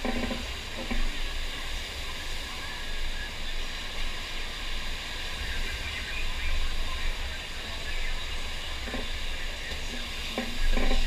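Steady rush of water pouring over a FlowRider sheet-wave surf machine, a constant hiss with a low rumble underneath.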